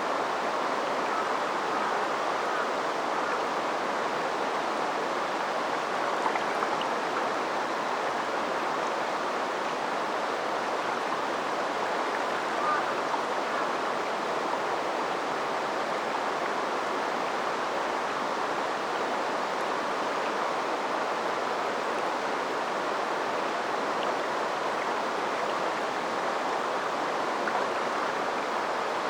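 River water flowing steadily, an even babbling rush with no pauses.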